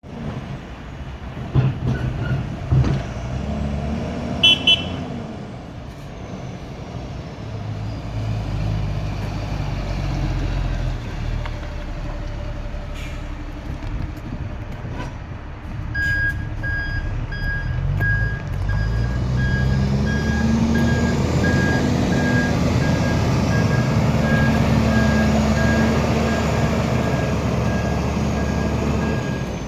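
DAF LF55 truck's diesel engine running, with a brief double toot of the horn a few seconds in. From about halfway, a warning beeper pulses steadily, and soon after the engine revs rise and hold high to the end.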